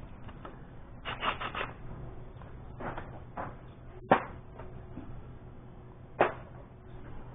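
A series of sharp knocks over a steady low hum: a quick run of four about a second in, a few fainter ones, then two louder single knocks about four and six seconds in.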